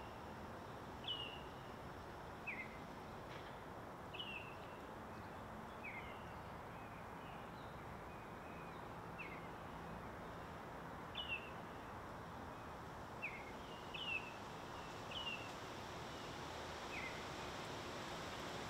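A small bird calling with short, sharp downward-slurred chirps, about ten of them a second or two apart, alternating between a higher and a lower note, over a steady outdoor hiss.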